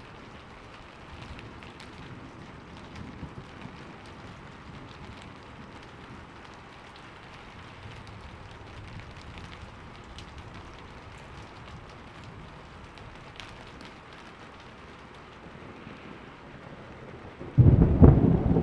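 Steady rainfall with scattered drops. Near the end a thunderclap breaks in suddenly and rolls on loudly.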